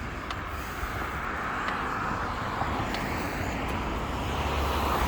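Steady rushing noise of a moving bicycle ride: wind on the microphone with a low rumble, and tyre noise. It grows a little louder toward the end.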